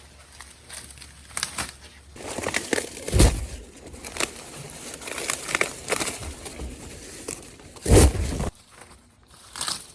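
Dry corn leaves and husks crinkling and tearing in irregular crackles as ears of corn are handled, with two heavy thumps about three seconds and eight seconds in.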